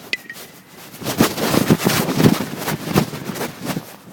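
Wind buffeting the microphone, a dense irregular crackle from about a second in, easing off near the end, after a brief click at the start.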